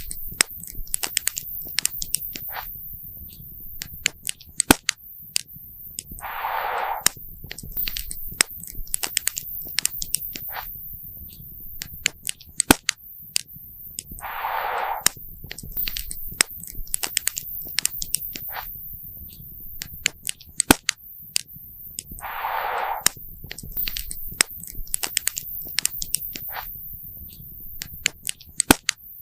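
Wood fire burning with irregular sharp crackles and pops. A soft hissing rush of about a second comes back about every eight seconds.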